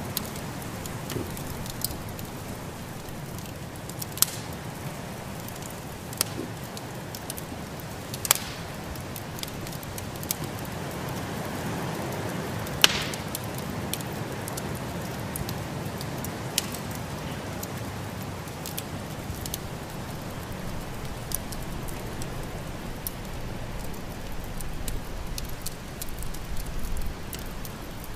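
Wood fire in a fireplace crackling, with sharp pops every few seconds over a steady rushing background.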